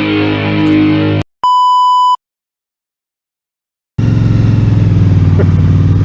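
Guitar music cuts off about a second in, followed by a short steady electronic beep tone lasting under a second. After a gap of silence, a vehicle engine starts sounding about four seconds in, running steadily with a fine, even pulse.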